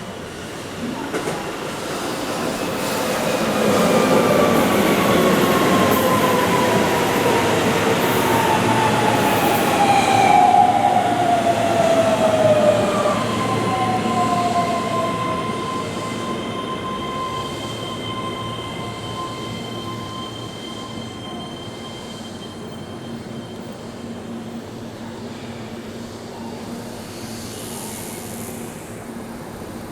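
Keihan electric train running through the station on a curve: it grows loud, then fades away. At its loudest, high-pitched tones fall slowly in pitch, typical of wheels squealing on the curved track, and a thin steady squeal lingers as it moves off.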